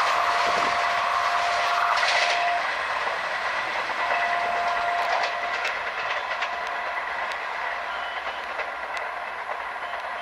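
Passenger train running at speed on the rails, with a steady rolling rumble and clicks over rail joints that slowly fade as it moves away. A thin steady tone comes and goes twice.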